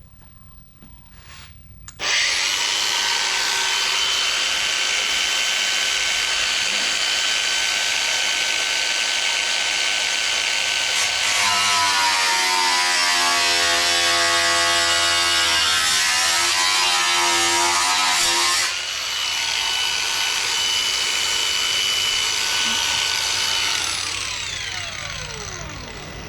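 Power cut-off tool with an abrasive wheel starting up about two seconds in and running with a steady high whine. From about the middle for several seconds it cuts into the sheet-steel fender, the tone wavering as it bites. Near the end it is switched off and winds down in falling pitch.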